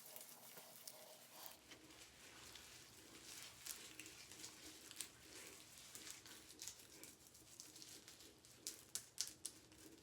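Faint scattered clicks and taps over low room tone, with a few sharper ones near the end.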